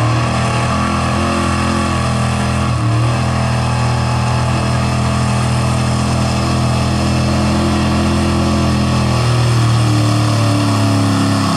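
Pulling truck's engine held at high revs under heavy load as the 4x4 pickup drags a weighted pulling sled: a loud, steady engine note with a brief dip about three seconds in.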